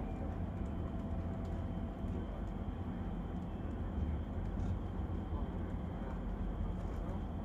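Moving passenger train heard from inside the carriage: a steady low rumble of the running train on the rails.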